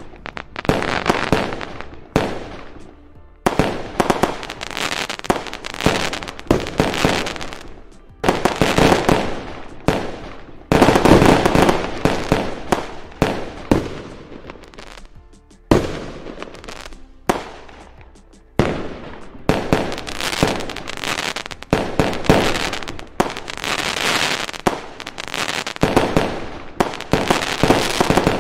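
Aerial fireworks bursting one after another, a sharp bang every second or two, each trailing off before the next; the loudest, thickest run of bursts comes a little over a third of the way in.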